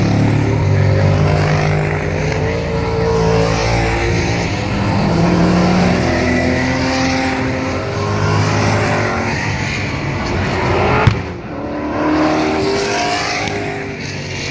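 Classic V8 muscle car race engines running hard as the cars race past, their pitch rising and falling with throttle and gear changes. The sound cuts off abruptly about eleven seconds in, then the engines pick up again.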